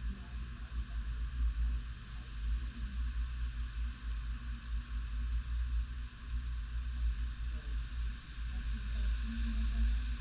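Tropical-storm wind buffeting the microphone in uneven gusts, a deep rumble that swells and falls, over a steady hiss.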